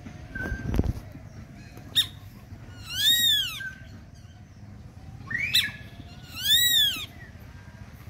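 A bird calls twice, about three seconds apart. Each call is loud and drawn out, sweeping up and then down in pitch, and each is preceded by a short sharp note.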